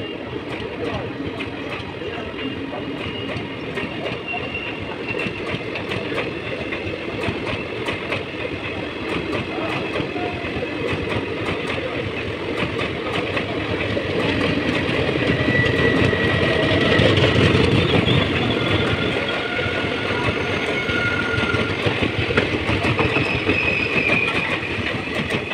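An Indian Railways express's sleeper coaches roll through the station without stopping: a steady rumble and clickety-clack of wheels over the rail joints, loudest about two-thirds of the way through. Thin high-pitched squeals come and go.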